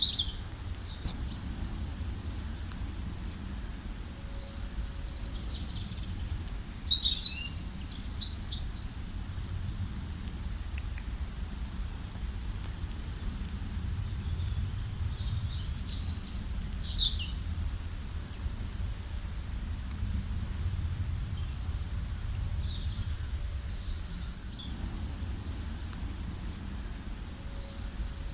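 Songbirds chirping and singing in short high calls and trills, several at once, coming in bursts a few times, over a steady low background rumble.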